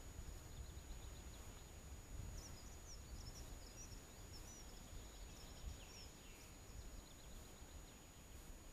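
Faint birdsong, scattered high chirps and short trills, over a low rumbling background.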